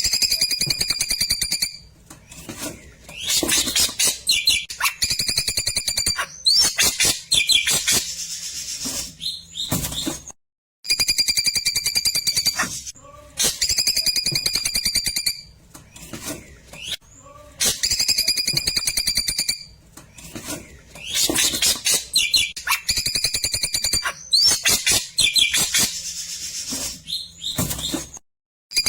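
Recorded song of the klewer, a songbird kept in Indonesia: fast chattering trills and clicks mixed with steady high whistled notes. The same phrase loops about every ten seconds, cut off by a brief dead-silent gap at each join.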